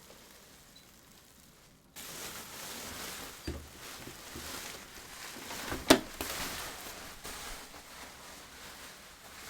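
Handling noise as parts of the keyboard setup are moved: a steady rustling hiss that starts suddenly about two seconds in, a dull knock, and one sharp click about six seconds in.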